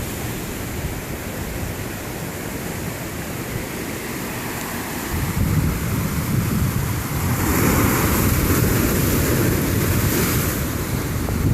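Big ocean waves crashing and washing in, a steady surf noise that builds about halfway through into a louder surge lasting a few seconds, with wind buffeting the microphone.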